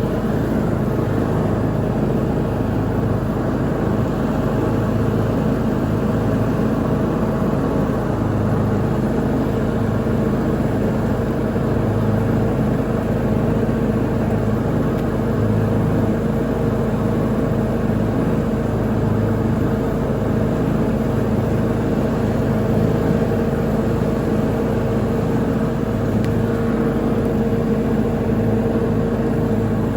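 Lawn mower engine running steadily at a constant speed while mowing.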